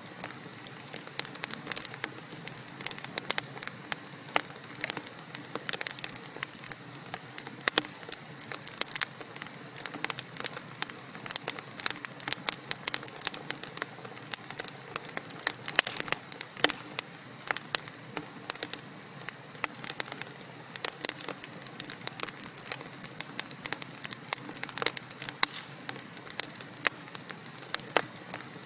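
Wood fire burning in a fireplace: logs crackling with many sharp, irregular pops and snaps over a steady soft hiss.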